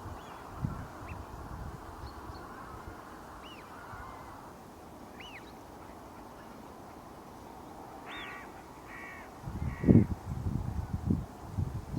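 A crow caws three times, harsh and evenly spaced, about eight seconds in, over open-air ambience with a few thin, distant rising-and-falling whistles, likely wigeon. Near the end come low rumbling thumps, the loudest sound, from wind buffeting or handling of the microphone.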